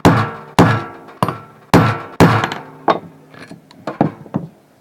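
Hammer blows on a screw set in a ceiling-fan bearing, driving the bearing out of its seat. They come roughly every half second, each with a brief metallic ring, and turn to lighter taps near the end.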